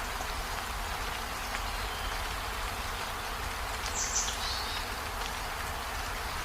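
Steady rainfall, an even hiss of falling rain, with a brief high-pitched chirp about four seconds in.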